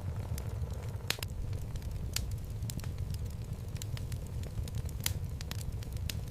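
Wood fire burning in a fireplace: a steady low rumble of flames with irregular sharp crackles and pops from the burning logs, two louder pops about a second in and about five seconds in.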